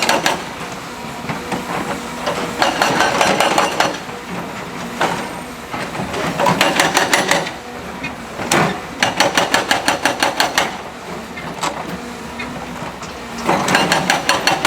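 Heavy construction machinery at work, with four bursts of rapid metallic hammering at about eight blows a second over a steady engine drone.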